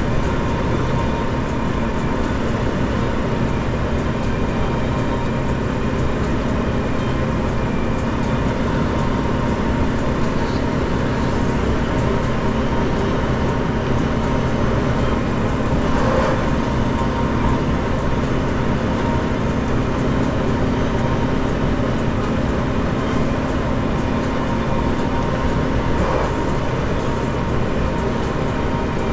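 A vehicle engine runs in a steady, unchanging drone with a constant low hum, swelling slightly about sixteen seconds in and again near twenty-six seconds.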